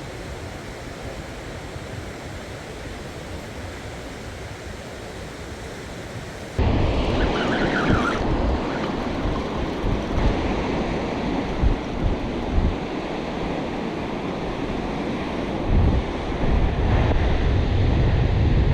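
Surf on a rocky coastline under wind. A steady rushing hiss jumps suddenly louder after about six and a half seconds, with wind buffeting the microphone in low rumbling gusts.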